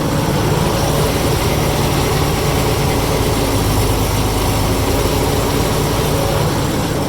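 Fiat-Allis 11-B crawler dozer's engine running steadily as the machine backs up one track pin while the track is fed back on.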